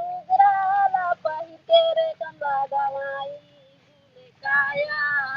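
A high solo voice singing a Chhattisgarhi Dadariya folk song, the work song sung in the paddy field, in held, wavering notes. It breaks off for about a second midway, then starts again.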